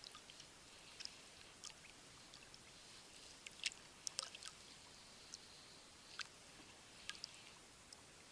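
Near silence with scattered faint, sharp clicks and ticks, several bunched together about three and a half to four and a half seconds in.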